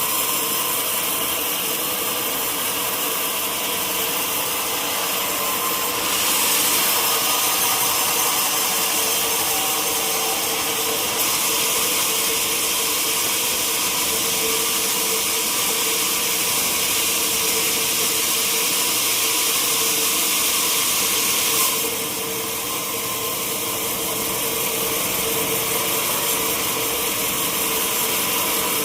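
Sawmill saw running steadily and cutting through a teak log. The hissing cut comes in about six seconds in, gets louder a few seconds later, and stops abruptly about three-quarters of the way through, leaving the machine running.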